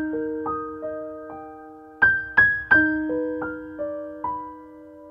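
Background piano music: a slow, gentle melody of single notes struck one after another and left to ring and fade.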